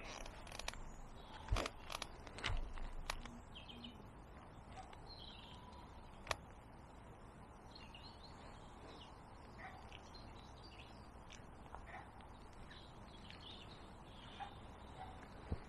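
Faint birds chirping over a steady background hiss, with a few sharp knocks and clicks in the first few seconds and another about six seconds in.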